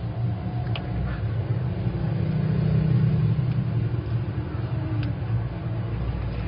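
A steady low rumble with a couple of faint clicks, about a second in and again near the end.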